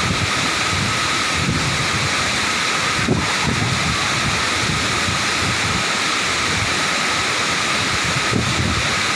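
The steady rush of a waterfall, with wind buffeting the microphone in irregular low gusts.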